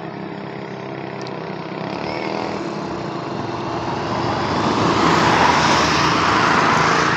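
Tata heavy truck's diesel engine running steadily, growing louder about four to five seconds in as a broad rush of engine and road noise swells.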